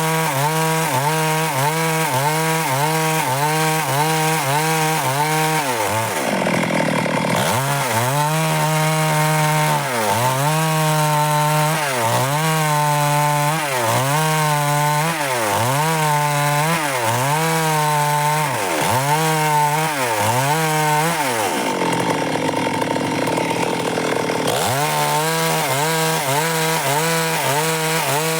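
Stihl MS 382 two-stroke chainsaw cutting dry wood at high revs, its engine note dipping and recovering about once a second as the chain bites. Twice it bogs down lower under load for a second or more, about six seconds in and again near the end.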